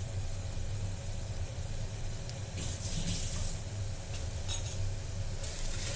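Chopped onions and ginger-garlic paste sizzling in hot oil and ghee in an aluminium pressure cooker, a steady frying hiss with louder spits of crackle midway and again near the end. A steady low hum runs underneath.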